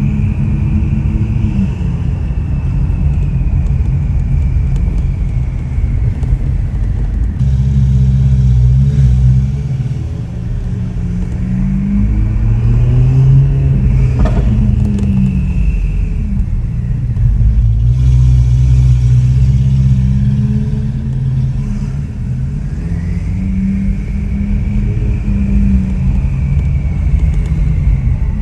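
Ferrari 488 Pista's twin-turbo V8 running through an aftermarket Ryft exhaust while driving, with one rise in revs about halfway through that falls away again, and the revs climbing once more near the end.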